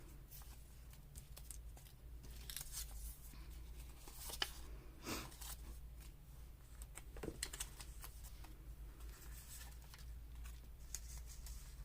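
Loose paper ephemera being handled and sorted: faint rustles and light clicks and taps, scattered irregularly, over a steady low hum.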